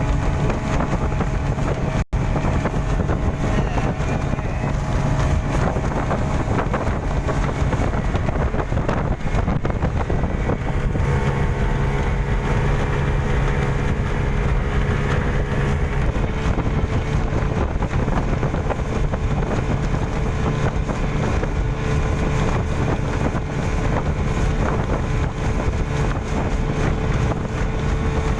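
Speedboat engine running steadily at speed, with wind buffeting the microphone. The sound breaks off for an instant about two seconds in.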